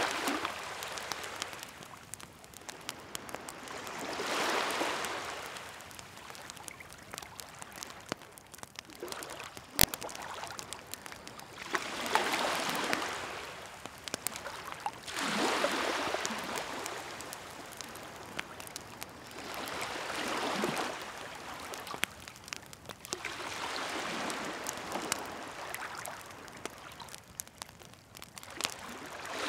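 Sea waves wash onto the shore in slow swells every few seconds. A wood bonfire crackles and pops throughout, with one sharp, loud pop about ten seconds in.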